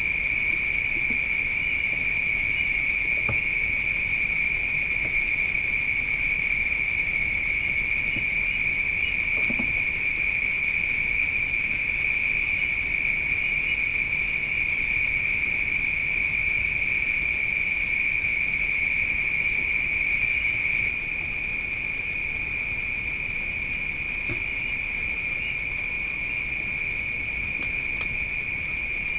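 Steady, unbroken high-pitched trilling of night insects such as crickets, becoming a little quieter about three-quarters of the way through.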